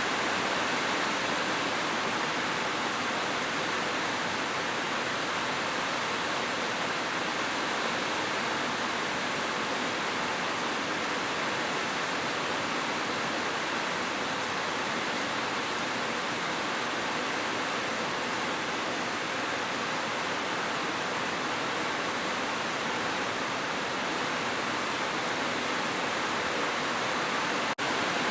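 Heavy rain falling as a steady, even hiss without distinct drops, with a momentary dropout near the end.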